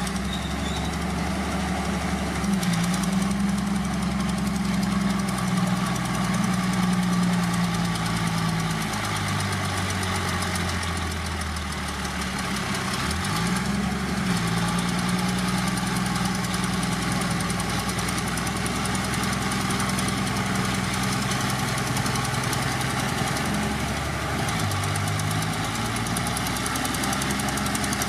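Heavy earthmoving machine's diesel engine running continuously. Its pitch drops and recovers around ten to thirteen seconds in, and dips briefly again near twenty-five seconds, as the load on the engine changes.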